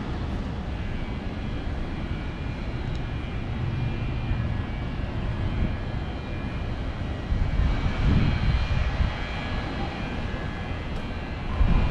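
Steady low engine rumble with a faint high whine, swelling briefly about eight seconds in and again near the end.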